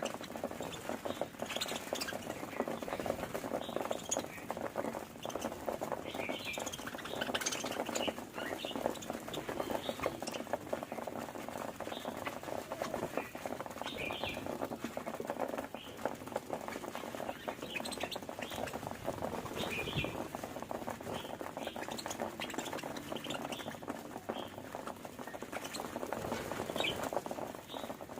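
Budgerigars chattering and chirping without a break: a busy stream of short chirps and warbles.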